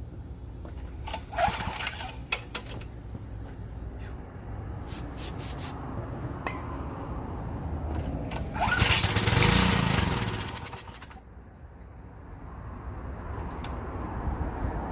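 Small gas engine on lawn equipment being cold-started: a few clicks and knocks, then from a little past the middle it fires and revs up and back down for about two seconds before dropping to a lower, steadier running sound.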